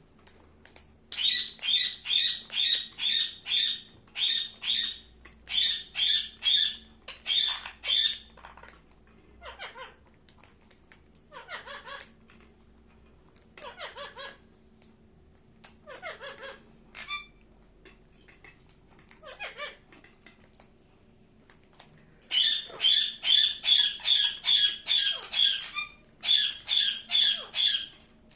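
Ringneck parakeet squawking: runs of rapid, harsh, shrill shrieks, several a second, with shorter single calls that fall in pitch in the middle stretch, then two more long runs of shrieks near the end.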